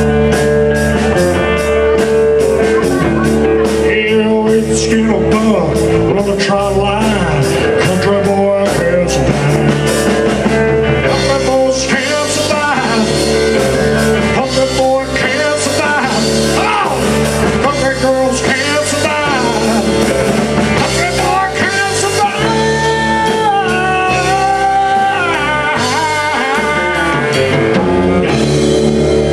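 Live honky-tonk country band playing: drums, bass and guitar under a bending, sliding lead melody that stands out in the second half.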